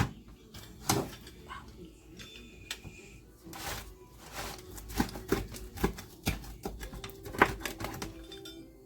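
A string of irregular sharp clicks and knocks, about a dozen, loudest about a second in and again past the middle, with faint background music coming in near the end.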